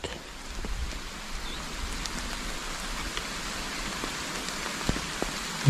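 Rain falling on a pond's surface, a steady hiss of drops, with a couple of faint ticks near the end.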